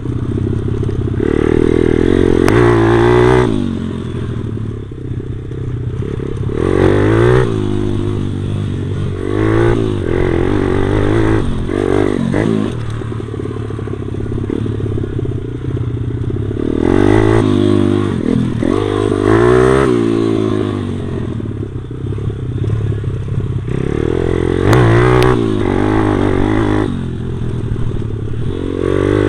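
A Stomp pit bike's small single-cylinder four-stroke engine being ridden, revving up and dropping back again and again with each burst of throttle.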